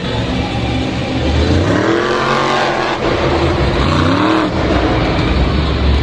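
Monster truck engine revving up and falling back twice, over a steady low engine rumble.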